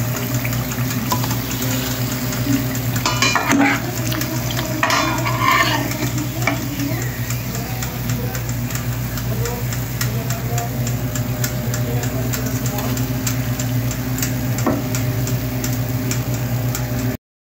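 Sugar-glazed sweet potato slices frying in oil in a pan: a steady sizzle with scattered small pops over a constant low hum. A metal spatula scrapes and clinks against the pan a few times about three to six seconds in. The sound cuts off suddenly just before the end.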